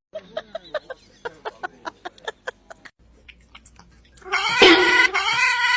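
A cat calling: a quick series of short, high calls, then after a cut one long, loud meow with a wavering pitch near the end.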